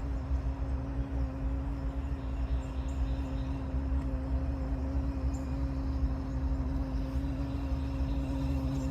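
A bee buzzing as one steady, even-pitched hum, over low rumble from wind or handling on the microphone.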